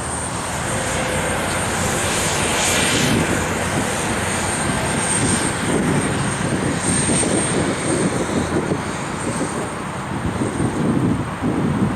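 Airliner engines running loud, a steady roar with a rumbling, fluctuating low end that grows in the second half.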